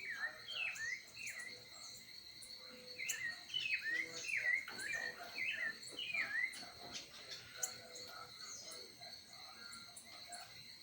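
A small bird calling in short chirps that slide down in pitch, a brief run near the start and a longer run in the middle. Behind them is a steady high drone of crickets or other insects.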